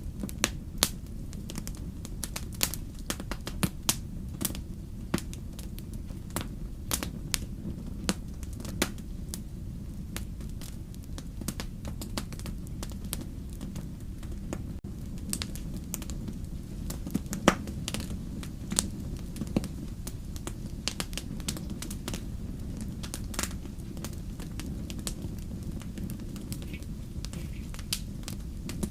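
Wood fire crackling and popping: irregular sharp snaps, a few louder ones, over a steady low rumble of the flames.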